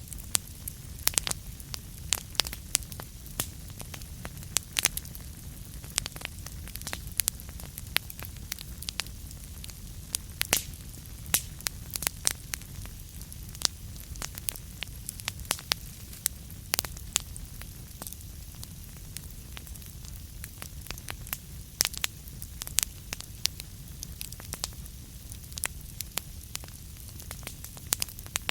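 Burning wood crackling: irregular sharp pops and snaps, several a second, over a steady low rumble.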